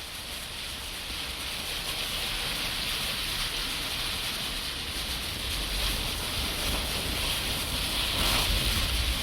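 Steady hiss of heavy rain falling, with wind rumbling on the microphone; it grows a little louder toward the end.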